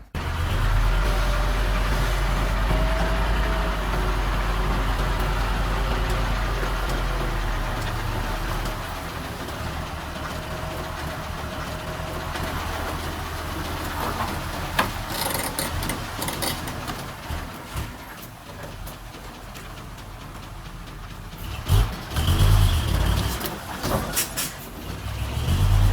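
Diesel engine of heavy earthmoving machinery running with a deep, steady rumble that eases off after about eight seconds. A few loud, short thuds come near the end.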